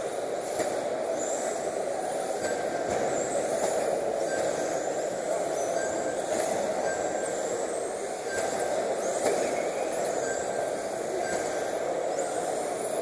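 Radio-controlled racing trucks running on the track. Several high-pitched motor whines rise and fall as they speed up and slow down, over a steady rushing noise.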